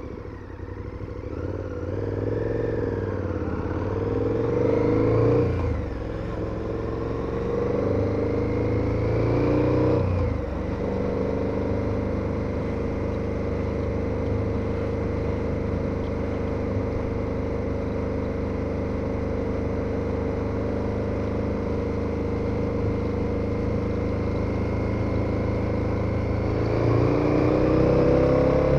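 KTM 1290 Super Adventure's V-twin engine accelerating, with its revs rising and dropping sharply at two upshifts in the first ten seconds. It then runs at steady revs while cruising, and pulls up in revs again near the end.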